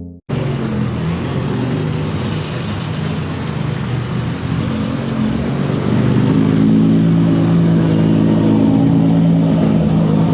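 A car engine running with a steady low note, growing louder about six seconds in.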